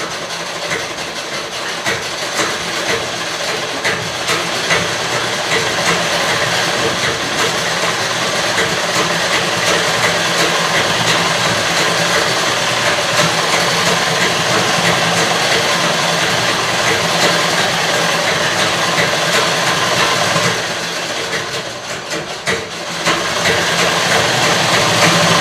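Treadle sewing machine running steadily, a fast continuous clatter of the needle and mechanism stitching fabric. It eases off about twenty-one seconds in, then picks up again near the end.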